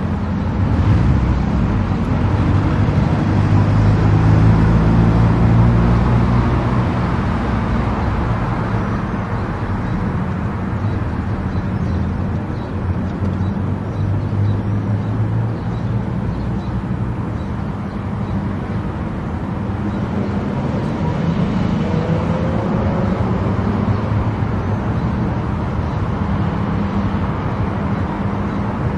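Car driving at highway speed: steady engine hum and tyre and road noise, swelling slightly a few seconds in.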